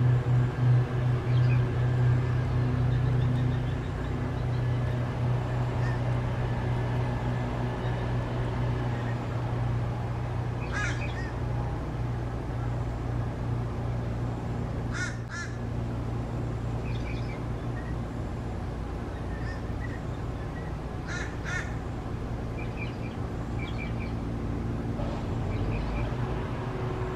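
Harsh, crow-like bird calls come in three short bunches, about 11, 15 and 21 seconds in, with a few fainter high chirps of small birds between them. Under them runs a steady low hum.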